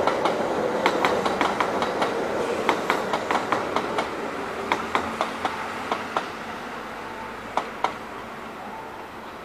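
Kintetsu limited express electric train rolling past, its wheels clicking over rail joints in quick pairs above a running hum. The sound fades steadily as the train draws away, with a last pair of clicks from the final wheels near the end.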